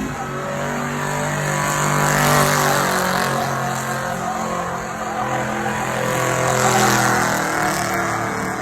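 Truck engines running, a steady engine drone that swells in loudness twice, about two seconds in and again near seven seconds.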